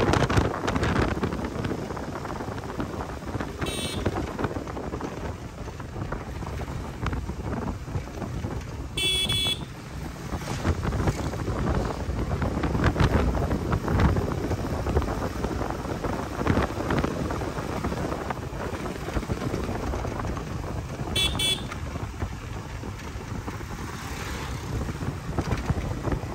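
Wind on the microphone and traffic noise from a moving motorcycle, with a high-pitched vehicle horn honking three times: briefly about four seconds in, longer around nine seconds in, and briefly again near the twenty-first second.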